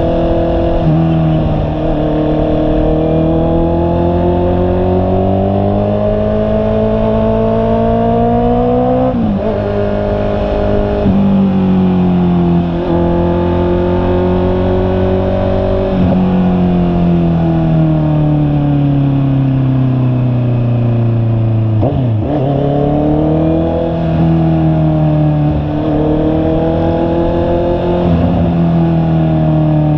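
Honda CB650R's inline-four engine under way, rising in pitch as it accelerates and dropping sharply at each gearshift, about nine, eleven and sixteen seconds in. From about sixteen seconds the pitch falls steadily as the bike slows, then a sharp change near twenty-two seconds is followed by the engine pulling up again.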